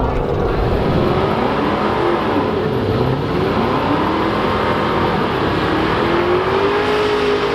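Drag racing car engine running hard at high revs. Its pitch dips and climbs again a couple of times as it accelerates.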